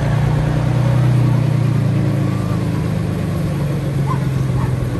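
Diesel engine of a small Planet diesel locomotive running steadily at low revs, its throttle closed into neutral as the locomotive is brought to a gentle stop.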